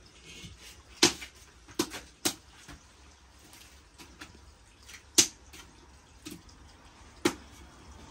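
Irregular sharp taps: about five loud ones a second or more apart, with a few fainter ones between, over a faint steady background.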